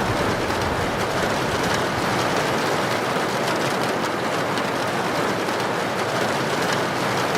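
Heavy rain pouring steadily, an even, unbroken wash of noise.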